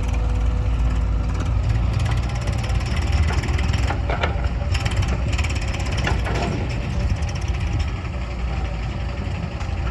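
Eicher 380 tractor's diesel engine running steadily.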